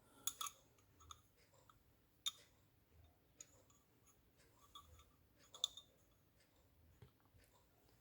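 Near silence broken by a few faint, scattered clicks and taps of small parts being handled.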